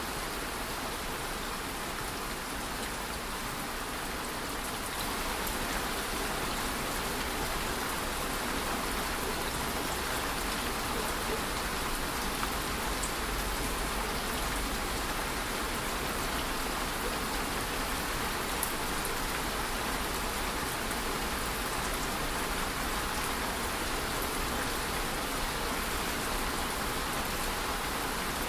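Steady rain falling, an even unbroken hiss of drops that grows a little louder about five seconds in.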